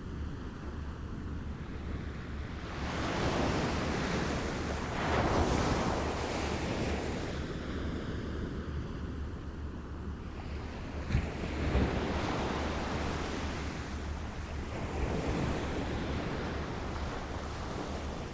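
Small waves lapping and washing ashore, swelling and receding every few seconds, with a brief splash or knock about eleven seconds in. Wind rumble on the microphone underneath.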